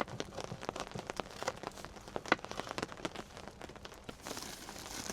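Rain falling in scattered, irregular drips and taps, with one louder tap about two and a half seconds in.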